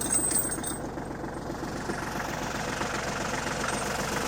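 Farm tractor's engine running steadily with a fast, even low beat.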